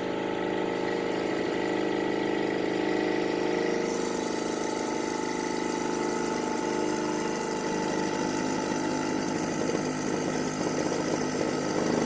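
Old 12-volt air-ride compressor running with a steady hum, pumping up slowly; it seemed dead and has only just begun to build pressure, worn from years of disuse. Its tone turns a little rougher about seven seconds in.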